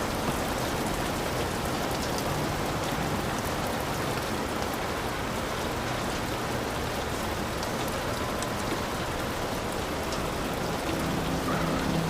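Heavy rain falling steadily on a hut, a dense even hiss with individual drops ticking through it. Near the end a faint low hum of a few steady tones comes in underneath.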